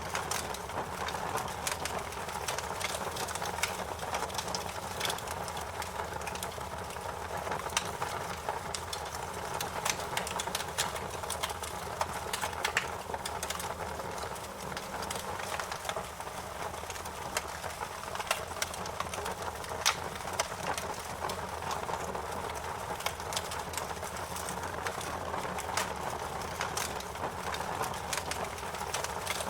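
Wood fire burning in a fireplace, crackling steadily with frequent sharp pops over a low, even hiss.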